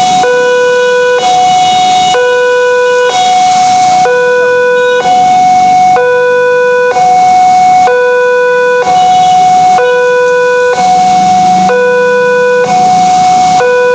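Electronic warning alarm at a railway level crossing, alternating between a lower and a higher tone, each held about a second, over and over. It is the signal that a train is approaching and the crossing barrier is down.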